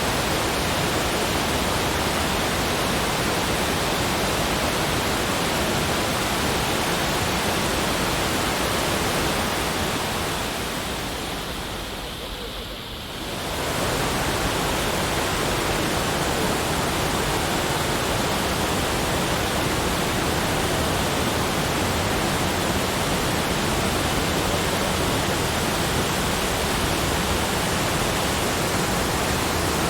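Steady rushing water, an even hiss like a waterfall. It dips about ten seconds in and swells back to full a few seconds later.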